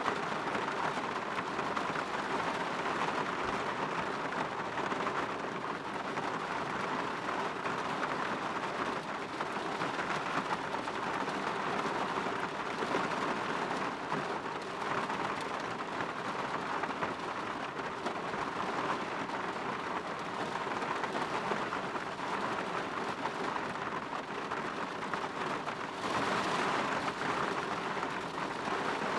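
Steady rain falling on a window and surfaces, a dense even patter that grows slightly louder near the end.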